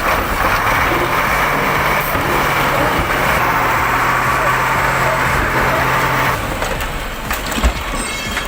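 Heavy vehicle engine running hard under load during a winching pull, its note easing off about six seconds in. A short knock follows near the end.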